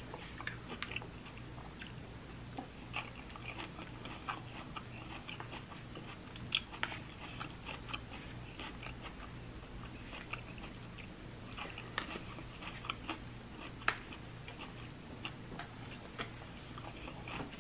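Close-miked chewing and crunching of raw salad greens, with scattered crisp crunches over a faint steady low hum.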